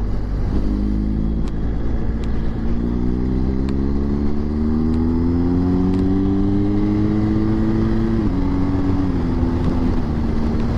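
BMW GS motorcycle engine accelerating, its pitch rising steadily for several seconds, then dropping suddenly at a gear change about eight seconds in and holding steady, over wind rush at riding speed.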